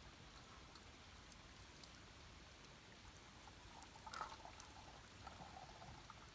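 Wood campfire crackling faintly, with scattered small pops and a slightly louder crackle about four seconds in.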